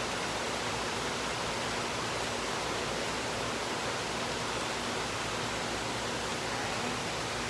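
Heavy rain falling in a thunderstorm, a steady even hiss.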